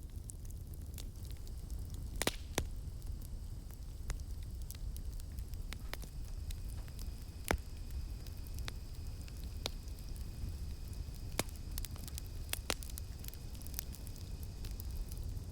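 Campfire crackling: irregular sharp pops and snaps from burning wood over a low steady rumble of the flames, with a few louder pops. A thin, steady, high insect drone, like cicadas, comes in about six seconds in.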